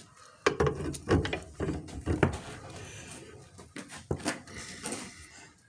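A string of sharp knocks and clatters from hand tools working on a tractor's drag link, most of them in the first two and a half seconds and a few more about four seconds in.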